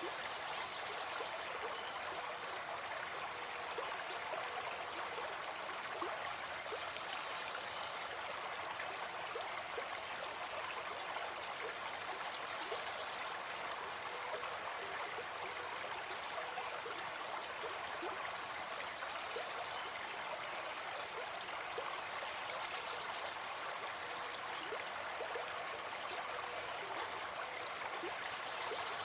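Gentle forest stream flowing: a steady, even rush of water with many small gurgles and trickles.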